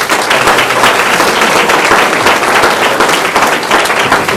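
Audience applauding: loud, dense clapping from many hands.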